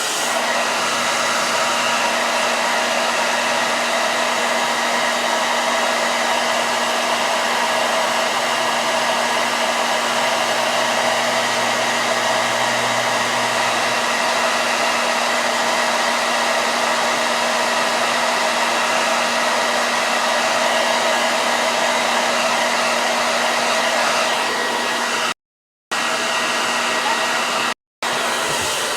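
Handheld hair dryer running steadily. The sound cuts out completely twice, briefly, near the end.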